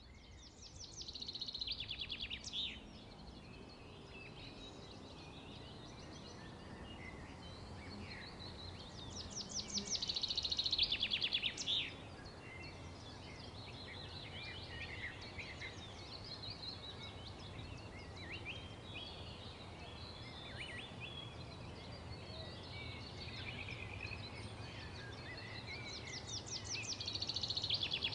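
Songbirds singing: a steady mix of chirps and short phrases, with loud trills of rapidly repeated notes about a second in, around ten seconds in and again near the end, over a faint low hum.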